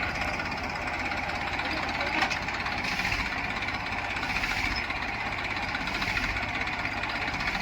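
Diesel engine of heavy farm or construction machinery running steadily, with a rough clattering note.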